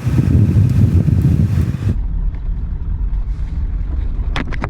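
1996 Ford F350's 7.3 Powerstroke diesel running on the move, with wind noise over it. About two seconds in the sound changes abruptly to a steadier low engine rumble, and a few sharp clicks come near the end.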